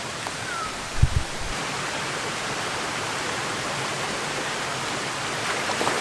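Waterfall rushing steadily, with a brief low thump about a second in.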